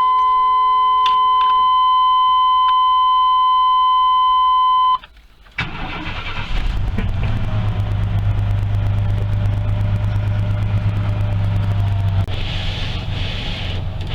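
A steady electronic warning tone from the van's dash sounds for about five seconds and then stops. About half a second later the 1995 Chevrolet Astro's 4.3-litre V6 cranks, catches and settles into a steady idle on a cold start, after sitting since the day before.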